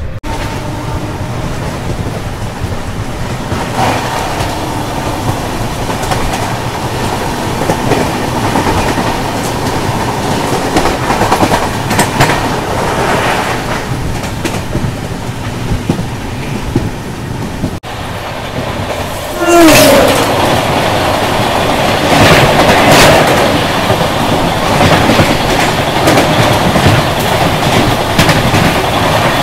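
Double-decker express train running on the track, its wheels clacking over the rail joints under a steady rumble. It gets noticeably louder about two-thirds of the way through, with a short falling squeal as it does.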